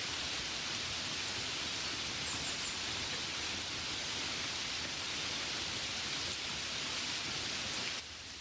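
Steady gentle rain falling, an even hiss of drops. Near the end the rain abruptly drops to a quieter level.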